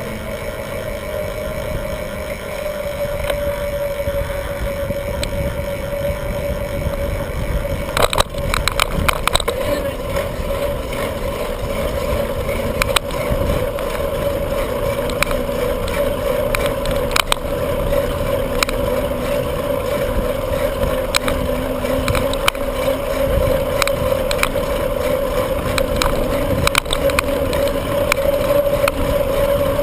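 Bicycle ride heard on the rider's camera: steady wind and road noise with a mid-pitched hum, and sharp rattles and knocks from the bike from about eight seconds in.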